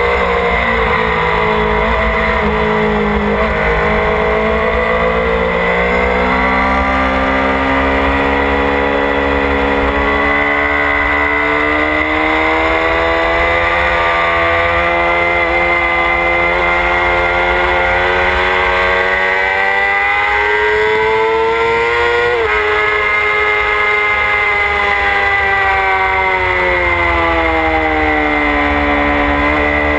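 Motorcycle engine heard from an onboard camera while ridden on a track. The revs climb and fall slowly, with one sudden drop in pitch about two-thirds of the way through.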